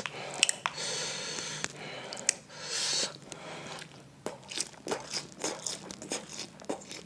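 Close-miked eating: a man bites into a piece of food and chews it. There is a noisy stretch in the first few seconds, then a quick run of crisp crunching clicks in the second half.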